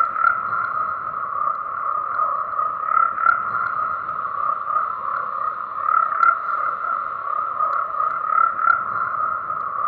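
A chorus of many frogs calling at once, a dense unbroken croaking with small swells every second or two.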